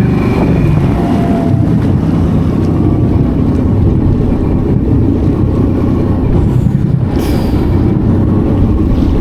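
Small motorboat running fast across the water: a loud, steady engine rumble mixed with wind buffeting the microphone. It cuts off suddenly at the end.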